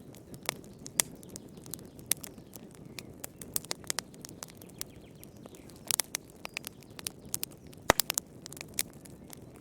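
Wood fire in a fireplace crackling: irregular sharp snaps and pops over a low steady hiss of burning, with a cluster of pops about six seconds in and the loudest snap about eight seconds in.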